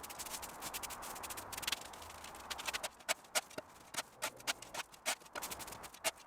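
Steady scraping for the first few seconds, then a run of sharp clicks, about two or three a second: hand-tool garden work.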